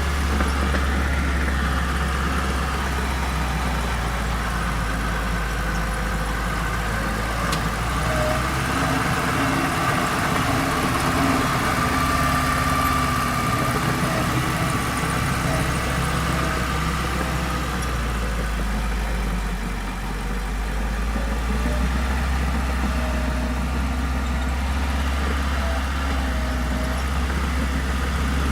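Engine of a heavy construction machine running steadily at low revs, a continuous low drone.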